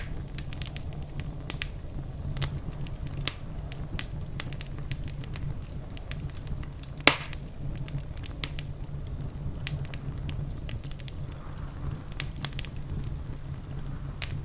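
Fireplace fire crackling: irregular sharp pops and snaps over a steady low rumble of flame, with one louder pop about halfway through.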